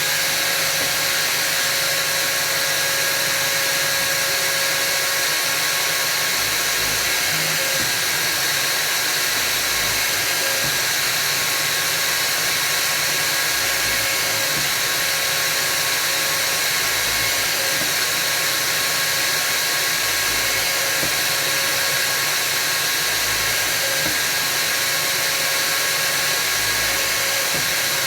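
Electric drill running steadily, drilling holes in beech wood slats, with a constant motor whine over a broad hiss.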